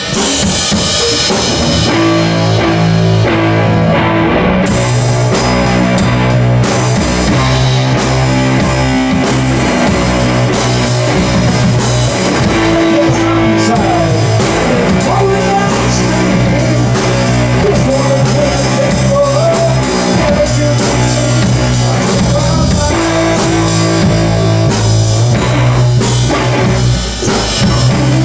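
Rock music with electric guitar, bass and a drum kit playing a steady beat.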